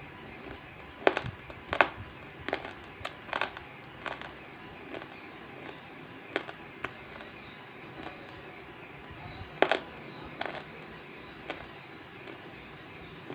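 Multani mitti clay crackling: irregular sharp cracks and clicks, roughly one or two a second, over a steady hiss.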